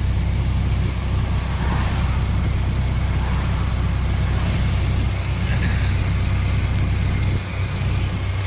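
Ford Model T's four-cylinder engine running steadily as the car drives along at road speed, heard from inside the open cab with a steady hiss of road and wind noise.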